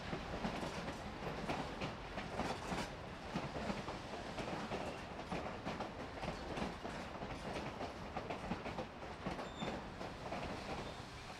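Narrow-gauge passenger cars rolling along the track: a steady rumble with the wheels clicking and knocking irregularly over the rails, easing off slightly near the end as the train moves away.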